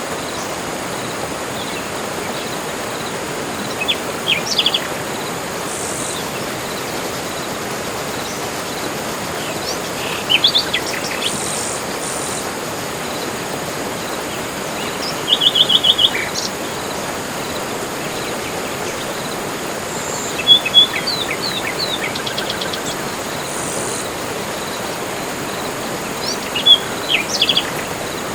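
Songbirds calling in a forest over a steady background hiss. Short high phrases come every few seconds, with a quick trill of about seven notes around the middle.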